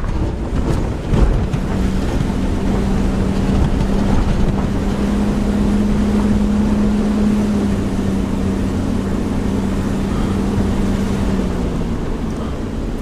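A car being driven: road and wind noise with a steady engine hum holding one note for most of the time, and a single knock about a second in.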